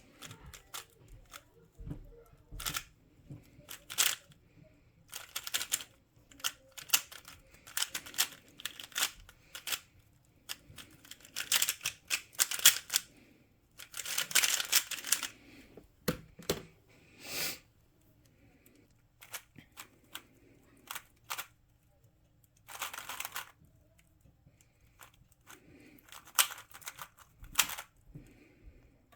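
Plastic twisty-puzzle cube being turned by hand: rapid clicking and scraping layer turns in bursts, separated by short pauses.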